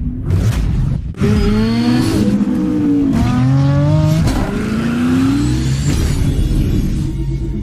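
Car engine accelerating hard through the gears: the pitch climbs about three times, dropping back at each upshift.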